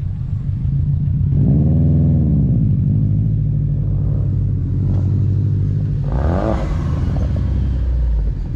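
Car engine idling with a steady low rumble, revved up and back down twice, about a second and a half in and again about six seconds in.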